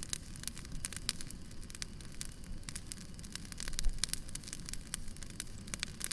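Campfire of burning wood crackling, with many irregular sharp pops and snaps over a low rumble.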